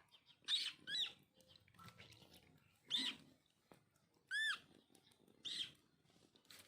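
American coots calling: about six short calls, each rising and falling in pitch, spaced a second or so apart.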